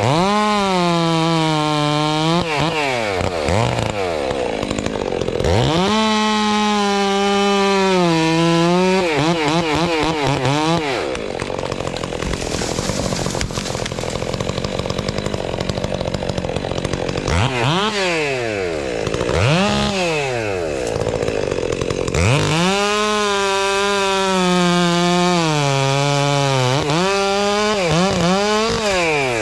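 Gasoline chainsaw run at full throttle in four long cutting bursts, its pitch sagging as the chain bites into the wood and climbing again as it frees up, with a lower lull in the middle.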